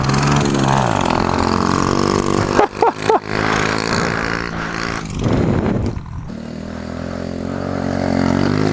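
Mini bike engine running hard under a rider, its pitch rising and falling with the throttle, with a brief stutter about three seconds in and a rough, noisy stretch around five to six seconds before it settles into a steadier run.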